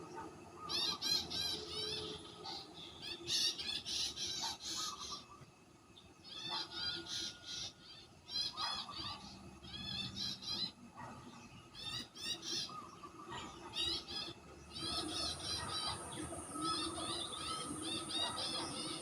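Forest birds calling in bursts of rapid, repeated chirping notes, each burst lasting about a second, over a low hum of forest ambience. About fifteen seconds in, a steady high-pitched insect drone joins them.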